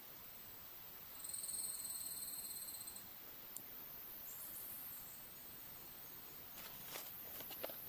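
A high steady trilling animal call about two seconds long, starting about a second in, then a shorter high trill. Near the end come a few light sharp clicks.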